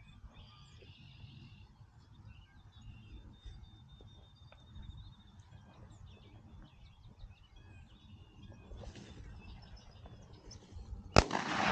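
Quiet open-field ambience: a low, uneven rumble with faint songbird chirps and a short high trill. About eleven seconds in, a sudden loud burst cuts in.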